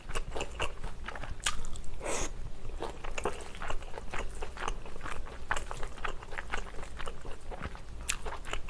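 Close-miked chewing of stir-fried sundae and pork intestines with glass noodles, heard as a quick, uneven run of short mouth clicks and smacks.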